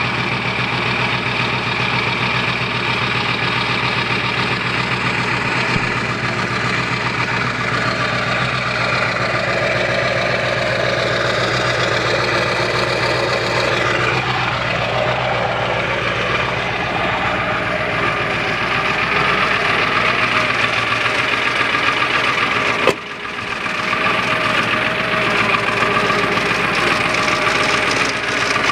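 1997 Ford F-350's 7.3-litre Powerstroke turbo-diesel V8 idling steadily while still cold after a cold start. The level drops briefly about two-thirds of the way through.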